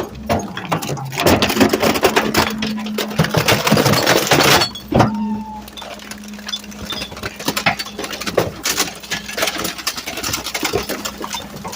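Garbage truck's hydraulic packer crushing trash in the hopper: a steady hydraulic hum under many cracks and crunches of things breaking, loudest in the first five seconds, with a sharp crack about five seconds in.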